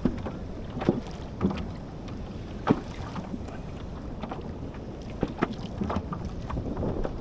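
Water knocking and slapping against a kayak's hull in irregular, uneven knocks, over a steady low rush of wind on the microphone.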